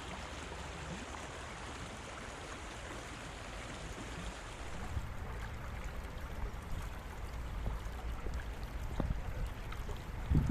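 River water running over rocks, a steady rushing. About halfway through it changes to a duller rush with more low rumble.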